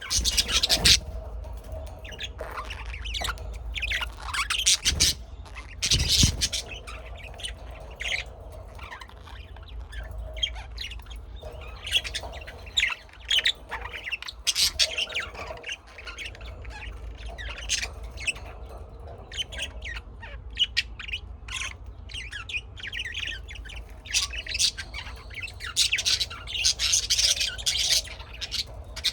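Several birds calling, with many short chirps and calls following one another in quick succession and overlapping.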